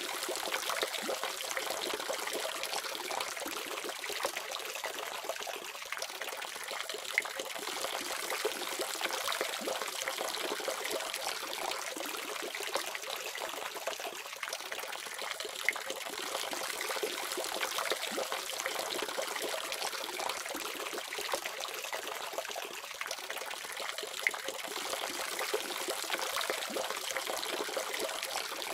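Water running steadily from a faucet, an even splashing trickle with small drips and splatters scattered through it.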